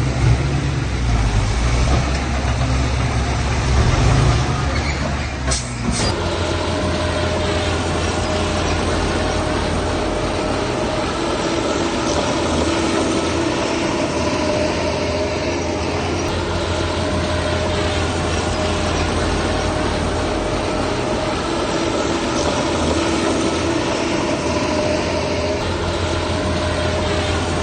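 Heavy machinery engine running steadily under load, with a steady whine over the low engine note; the sound changes abruptly about six seconds in.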